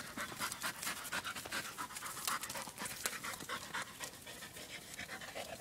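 A dog panting hard while it plays with a bowling ball, with many short sharp clicks and taps from its teeth and claws on the ball.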